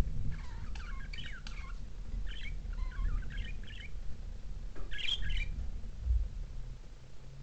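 Budgerigars chirping and chattering in three quick bouts of short warbling notes, over a low rumble.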